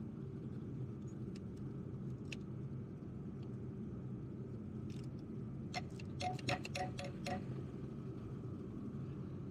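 Hand tools clicking and clinking as mechanic's sockets and a ratchet are handled: a few scattered single clicks, then a quick run of about seven metallic clicks with a slight ring, over a steady low background hum.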